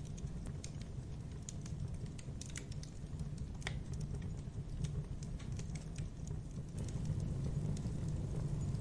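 Wood logs burning in a fireplace: irregular sharp crackles and pops over a steady low rumble of the fire, with one louder pop near the middle.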